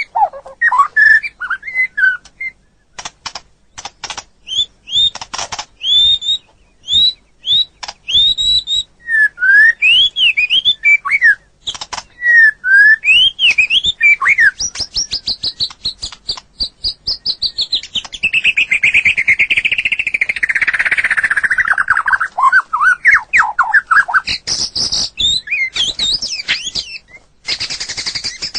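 White-rumped shama singing: a varied run of clear whistled notes and sharp clicks, then a long, fast trill that slides down in pitch over several seconds before the whistles resume.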